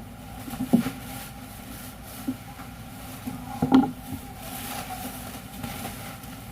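A machine running with a steady hum, with a few sharp clicks and knocks: one about a second in, a lighter one near two seconds, and the loudest just before four seconds.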